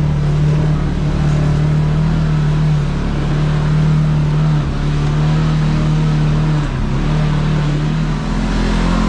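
Kawasaki KRX side-by-side's parallel-twin engine running steadily under way on a trail. The throttle eases off briefly twice near the end, then the engine picks up slightly.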